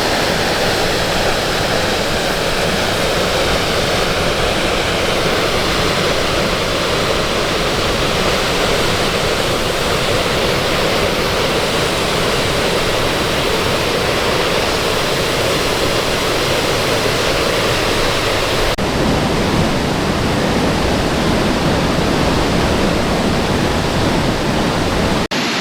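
Sol Duc Falls, a large waterfall, rushing steadily and loudly. The sound changes abruptly about nineteen seconds in, as if heard from another spot.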